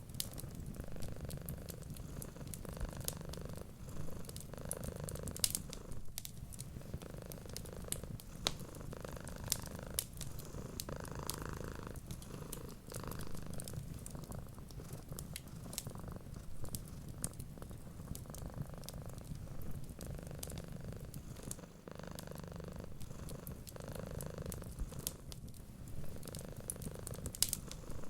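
A cat purring steadily in a slow in-and-out rhythm, with scattered sharp crackles from a wood fire.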